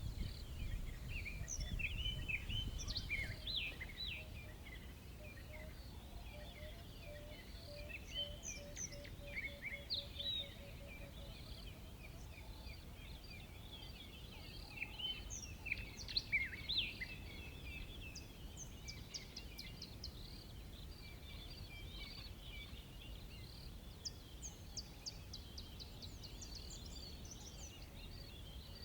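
Assorted wild birds chirping and calling, many short high notes overlapping, over a low background rumble. A low, evenly repeated note runs for several seconds in the first half, and a fast series of high ticks comes near the end.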